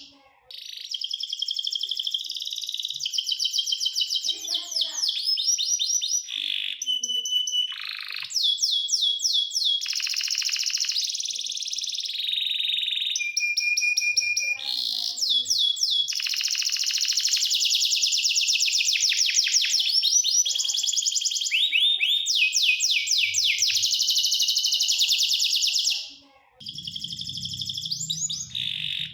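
Domestic canary singing a long song of rapid trills and rolls, mixing fast runs of repeated notes with held high whistles, broken by brief pauses.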